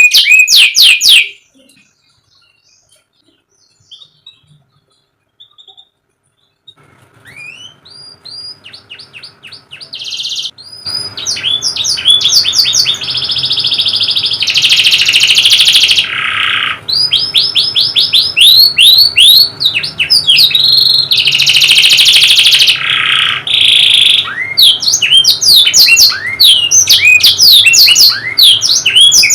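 Domestic canary singing: a fast trill of repeated notes stops about a second in. After a few seconds' pause the song returns faintly and builds to full volume, with rapid trills and longer buzzy held notes.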